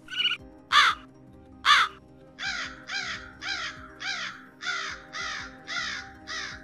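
A large black corvid cawing: two loud harsh calls, then a regular run of about nine shorter caws at roughly two a second. Background music with steady held notes plays under it.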